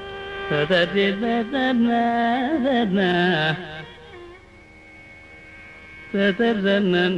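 Carnatic music in raga Mohanam: a male voice sings an ornamented phrase with sliding, oscillating notes over a steady tanpura drone. It pauses for a few seconds, leaving the drone, and then starts a new phrase near the end.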